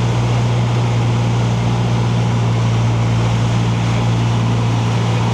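Cessna 150's four-cylinder Continental O-200 engine and propeller droning steadily in the cockpit under power on approach to landing.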